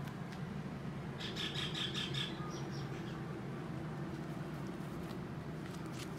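A bird chirping: a quick run of about nine high chirps about a second in, then a few fainter, higher notes, over a steady low background hum.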